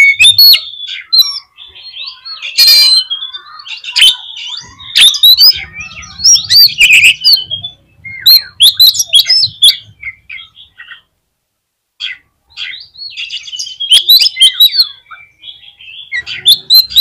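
Oriental magpie-robin (kacer) singing loudly, a rapid run of varied whistles, chirps and sharp notes in bursts, with a brief silent break about eleven seconds in.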